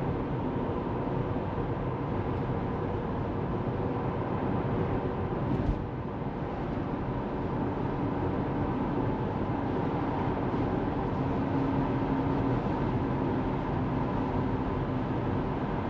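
Steady road and tyre noise from a Tesla Model 3 driving along, with a brief knock about six seconds in.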